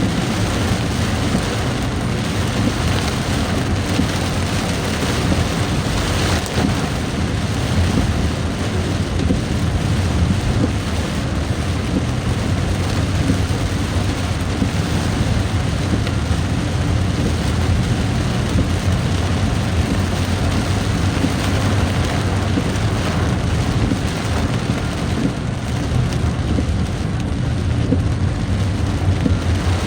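A vehicle driving in a downpour: an even hiss of pouring rain and wet-road noise over a steady low engine hum.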